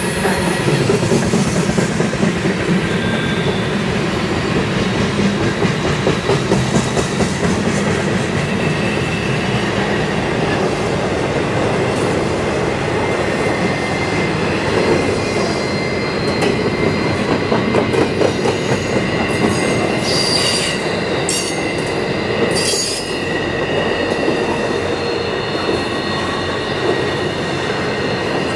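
Freight cars of a CSX intermodal train rolling past close by: a steady loud rumble of steel wheels on rail, with thin high squealing tones running over it. A few sharp clanks come about two-thirds of the way in.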